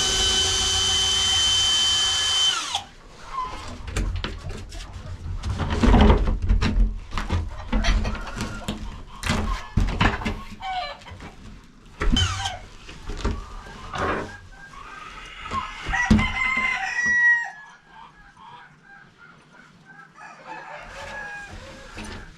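A rooster crows once, long and loud, its pitch falling at the end. Chickens then cluck among scattered knocks and rustles.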